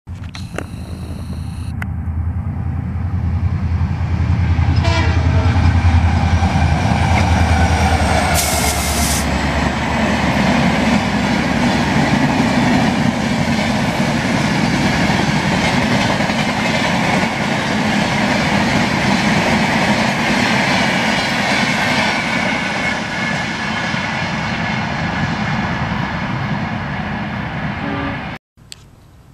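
Shatabdi Express of LHB coaches passing at speed. A low locomotive rumble builds and peaks as it goes by, its tones sliding lower in pitch. Then comes a long steady rumble and clatter of the coaches over the rails, cutting off abruptly near the end.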